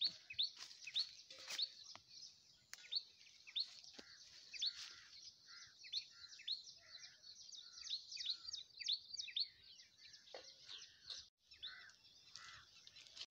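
Small birds chirping in the trees: a quick, continuous run of short high chirps, two or three a second, with softer, lower calls in between.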